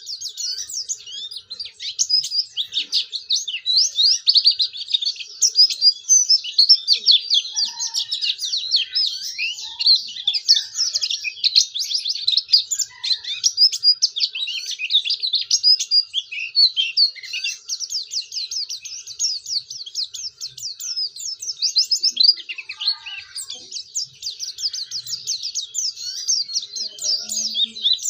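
A pleci (white-eye) singing without pause: a fast, high, run-on twittering song of chirps and trills, with a short slackening a little past the middle.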